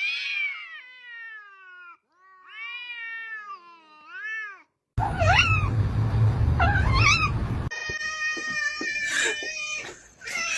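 Cats meowing and yowling at each other in a squabble: long drawn-out calls that rise and fall in pitch, one after another. The background changes abruptly twice, about halfway through and again later, as the clips cut, with a noisier background and some clicks in the later part.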